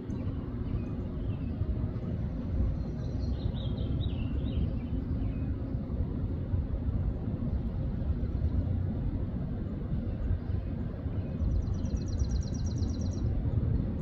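Steady low outdoor rumble with birds calling over it: a few chirps about three to four seconds in, then a fast, high trill of about ten notes a second that lasts nearly two seconds near the end.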